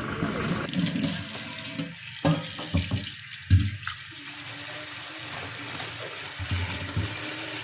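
Water running from a tap, with a few knocks and clunks; the loudest comes about three and a half seconds in.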